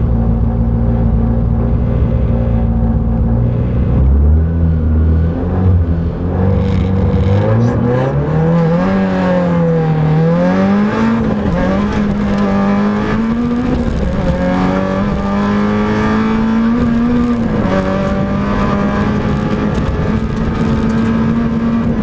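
Peugeot 106 rally car's engine heard from inside the cabin, held at steady revs for a few seconds, then launching about four seconds in and pulling hard, the revs climbing and dropping back again and again through gear changes and lifts.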